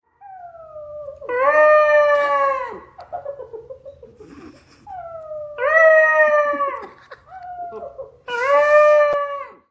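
A dog howling: three long howls, each held about a second and a half, with quieter whining calls between them.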